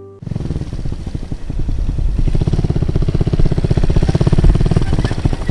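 Single-cylinder engine of a Suzuki TU250 Volty motorcycle running with an even, rapid exhaust beat. Its tone changes about five seconds in.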